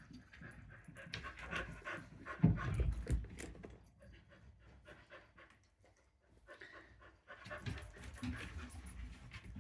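Dogs panting and scuffling as they play-fight over small toy balls, with a loud low thump about two and a half seconds in.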